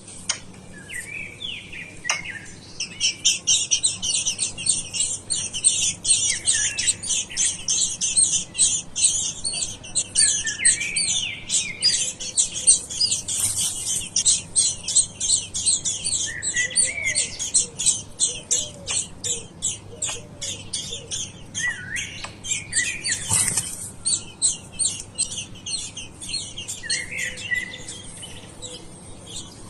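Birds chirping: a dense, fast run of short high-pitched chirps, several a second, with a lower, curving call every few seconds. A brief knock sounds about two-thirds of the way through.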